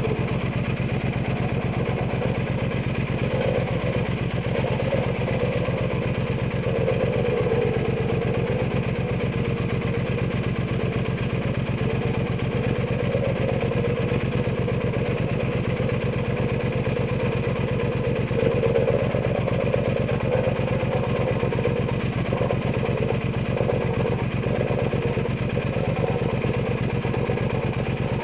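Triumph Bonneville T120's 1200 cc parallel-twin engine running through an aftermarket Zard exhaust, holding a steady engine speed with no revving.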